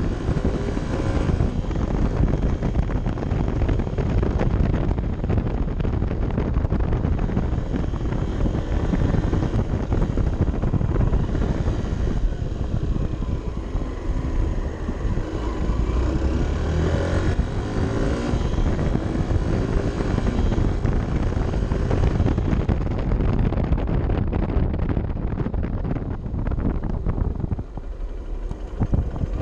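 Honda CB 125 F's single-cylinder four-stroke engine running under way, its revs rising and falling, with a brief drop in level near the end as the throttle eases.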